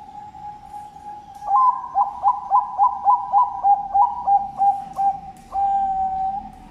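Zebra dove (Bangkok perkutut) singing its cooing song. A held note is followed by a quick run of about a dozen rolling coos, about three a second, and the song ends on a long held note.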